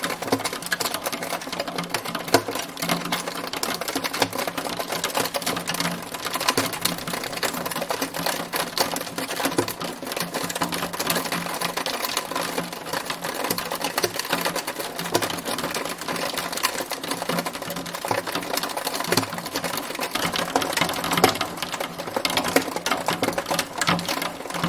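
Hailstorm: a dense, steady clatter of hailstones striking a hard surface, countless rapid ticks that never let up.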